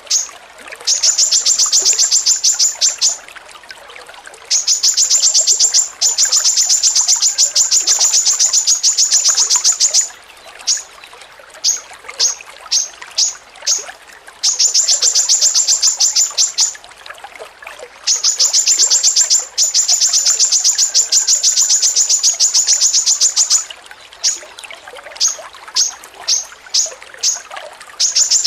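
A songbird's high, fast chattering ('ngocor receh' filler song). Runs of about seven quick identical notes a second last a few seconds at a time, with spaced single notes in the gaps between runs.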